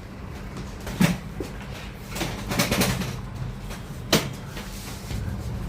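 A few sharp knocks and bangs as cargo is handled during truck loading: one about a second in, several between about two and three seconds, and one near four seconds, over a steady low hum.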